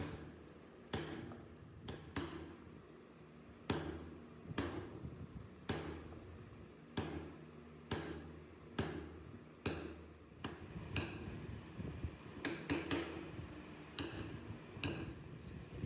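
Mallet striking a wood-carving chisel: sharp, slightly ringing knocks at irregular intervals of about a second, with a quick run of taps about three-quarters of the way through.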